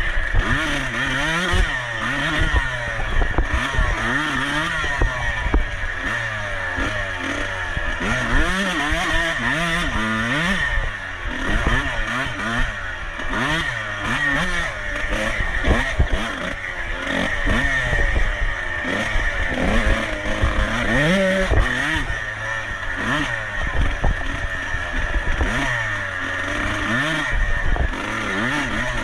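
Dirt bike engine being ridden hard, revving up and dropping back over and over as the rider goes on and off the throttle and shifts.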